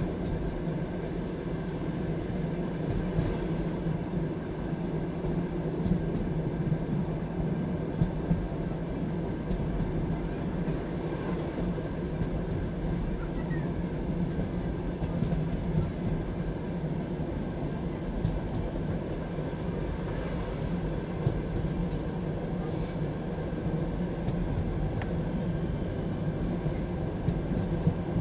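Passenger railway carriage rolling along the track, heard from inside: a steady low rumble of wheels on rail, with scattered sharp knocks.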